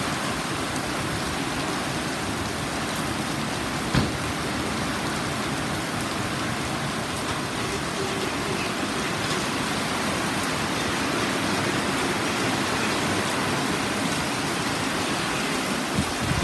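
Torrential cloudburst: a steady hiss of heavy rain pouring down, with a single knock about four seconds in.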